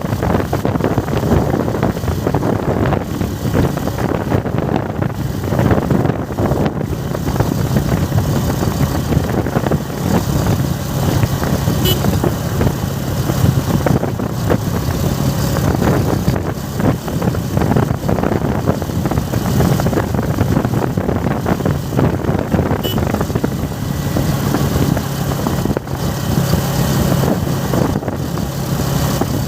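A vehicle engine running steadily: a continuous low hum with a noisy rush over it.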